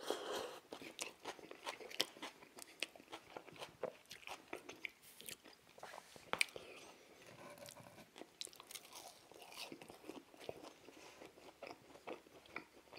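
Close-miked chewing: a mouthful of food being chewed with many small wet clicks and smacks.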